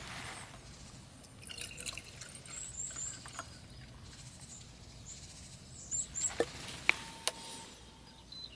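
Faint, scattered drips and small clicks over a quiet background, with a few very short high chirps.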